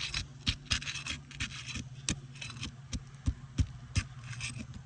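A pry bar working under old asphalt shingles: a series of sharp clicks and scrapes as the brittle shingle is pried loose from its sealed tar strip, over a steady low hum.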